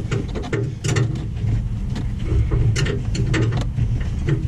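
Irregular metallic clicks and clinks from hand tools, such as a ratchet wrench, being worked on a truck's front-end bolts, over a steady low rumble.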